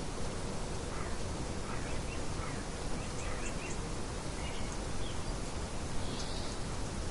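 Nature ambience of birds chirping: faint short chirps scattered over a steady hiss of background noise, with one slightly louder chirp about six seconds in.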